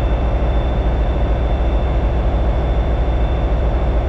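Train running steadily: a continuous low rumble with a thin, steady high-pitched whine.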